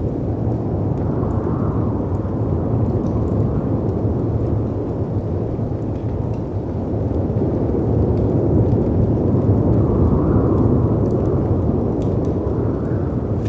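A continuous low rush of storm wind and sea surf that swells every few seconds, with faint scattered crackles and pops from a wood fire.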